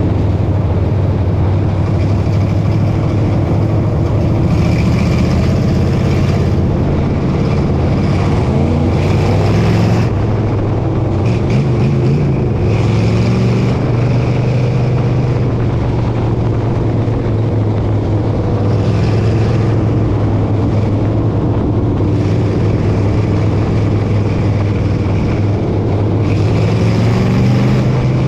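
Dirt modified race car engine running hard on a dirt oval, its pitch climbing and dropping again and again, with a surge every few seconds as it accelerates off the turns.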